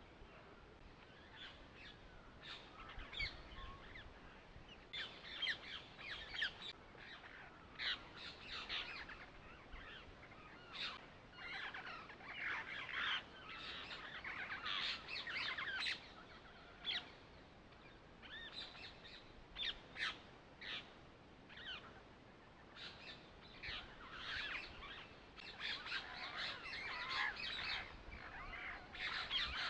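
Many birds chirping and calling, a dense run of short, quick calls with brief lulls.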